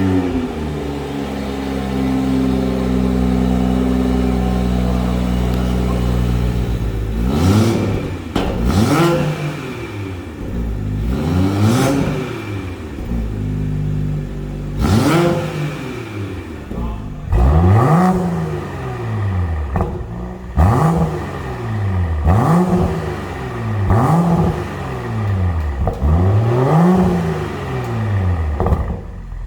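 BMW M340i's B58 three-litre turbocharged straight-six, breathing through a Stone Exhaust Eddy catalytic downpipe, starts up and settles to a steady idle. After about seven seconds it is revved repeatedly in neutral, about a dozen blips that each rise and fall over a second or two.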